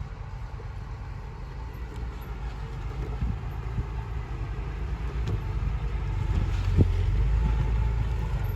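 Heavy earthmoving machine's diesel engine running with a low rumble, growing steadily louder, with a few short clunks, the sharpest about seven seconds in.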